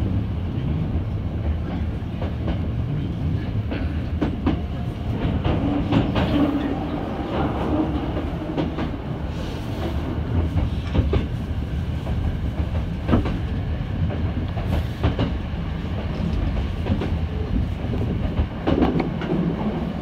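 Hankyu 7000-series train running along the line, heard from inside the car: a steady low rumble, with the wheels clicking now and then over rail joints.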